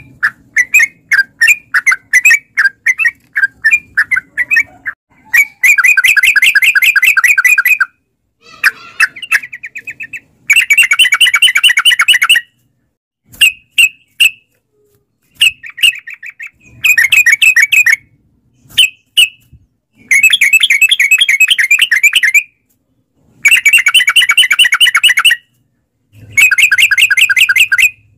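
Yellow-vented bulbul (trucukan) singing loud, rapid bubbling phrases: bursts of about two seconds each, repeated with short pauses and scattered single notes between them.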